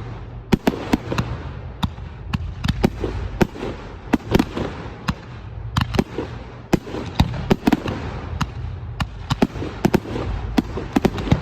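Professional fireworks display: many shells bursting in quick, irregular succession, several sharp bangs a second over a steady low rumble.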